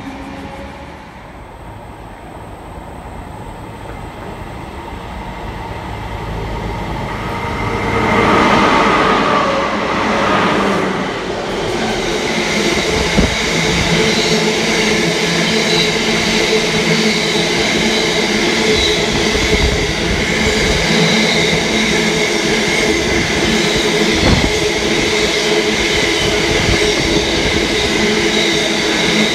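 Container freight train passing through a station platform. Its sound builds steadily until it is loudest about eight seconds in, then the loaded container wagons roll past continuously with a thin steady wheel squeal over the rail noise.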